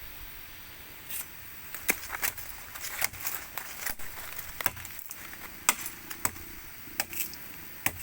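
Irregular sharp clicks and snaps, a few each second, over a faint steady background.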